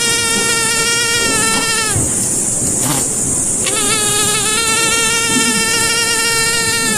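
Mosquito whining in flight: a thin, high buzz that sags in pitch and stops about two seconds in, then returns with a rising start and holds steady to the end. A steady high hiss runs beneath it.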